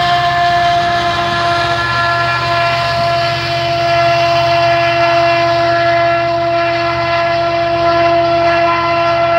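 Union Pacific autorack freight train rolling away with a low rumble from the trailing locomotive and cars, under a long unbroken train horn blast that sags slightly in pitch.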